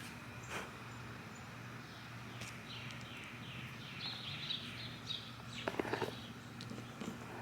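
Birds chirping, with a quick run of repeated chirps a few seconds in. A few sharp knocks come near six seconds in, over a faint steady low hum.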